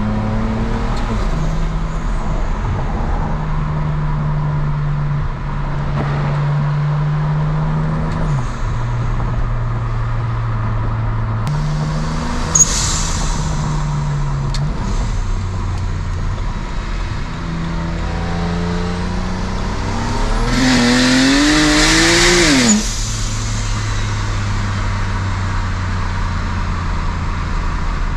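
BMW 335's single-turbo inline-six running through a custom exhaust with resonators and mufflers, cruising at a steady drone with a few changes in pitch and one sharp click. About 20 seconds in it pulls hard, its note rising with a loud hiss over it, then drops off abruptly near 23 seconds.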